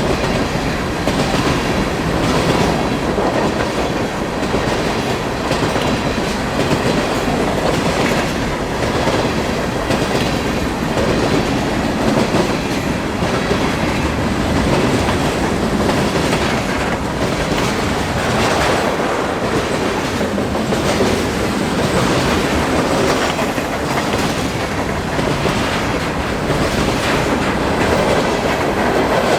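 A train rolling past close by, its wheels clicking steadily over the rail joints in a continuous clatter.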